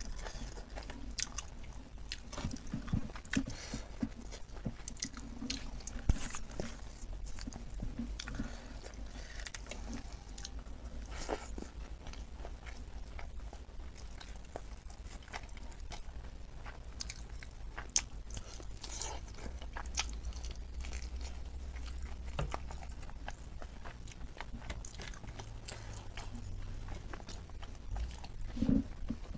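Close-up chewing and biting of pork leg meat, a dense run of short mouth noises with a few sharper clicks, the loudest about six seconds in.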